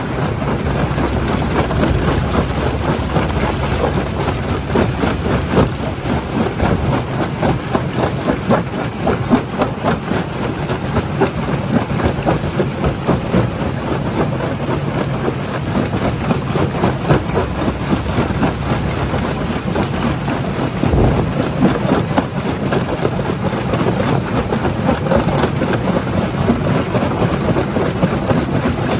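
Stone crusher, a primary jaw crusher, running under load: a dense, continuous crackle and clatter of rock breaking over a steady machine drone.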